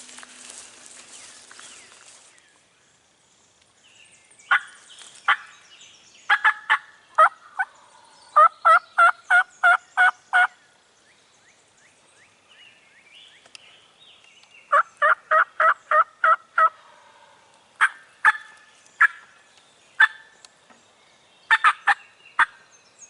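Turkey yelping and clucking: sharp single clucks, then two runs of about eight evenly spaced yelps a few seconds apart, then more scattered clucks.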